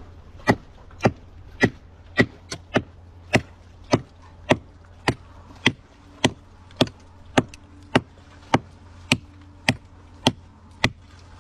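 A blade chopping into a hard tree root in the ground, about twenty sharp blows at an even pace of a little under two a second.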